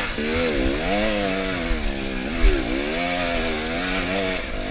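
Dirt bike engine working hard up a steep, slick hill climb, revs rising and falling again and again as the rear wheel digs for traction. A single knock about halfway through.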